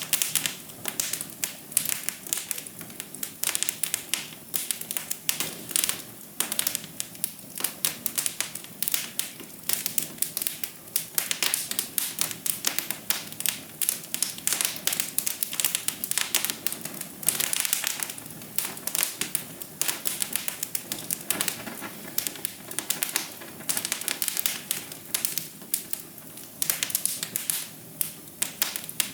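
Wood fire crackling and popping in a fireplace: a dense, irregular stream of sharp little snaps over a steady low hiss.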